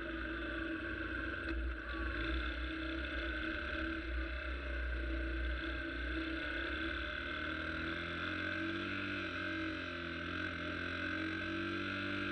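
Motorcycle engine droning at a steady pitch, with wind rumble on the microphone that eases about seven seconds in, after which the engine pitch wavers a little.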